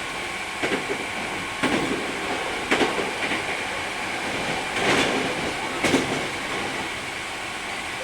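Hankyu 3300 series electric train running, with a steady running noise and a faint steady whine. The wheels clack over rail joints about once a second, loudest around five to six seconds in.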